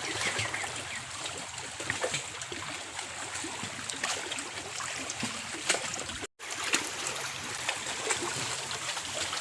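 Lake water lapping and trickling steadily, with scattered faint clicks. The sound cuts out completely for a moment a little past six seconds in.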